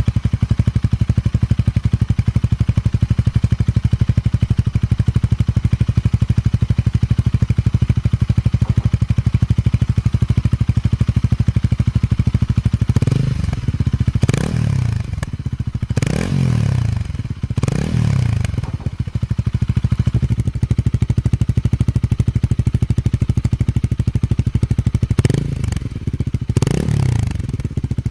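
Honda Rebel 250 (MC49) single-cylinder engine and exhaust idling steadily, just after starting. About halfway through, the throttle is blipped four times in quick succession, then twice more near the end, each rev rising and falling back to idle.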